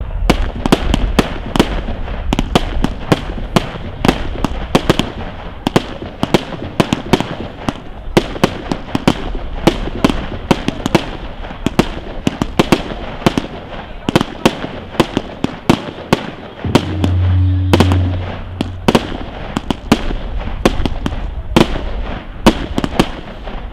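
Aerial fireworks going off in a rapid barrage: sharp bangs of bursting shells, two or three a second, over a steady hiss of noise. A brief low hum sounds about two-thirds of the way through.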